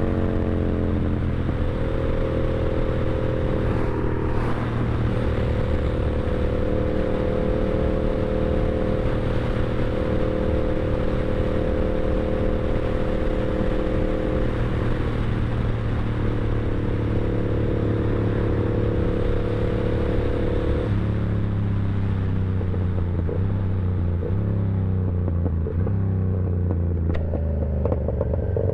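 Yamaha R7's 689 cc parallel-twin engine and exhaust under way, holding a steady cruising pitch for about twenty seconds, then dropping in pitch in a few steps near the end as the bike slows and shifts down.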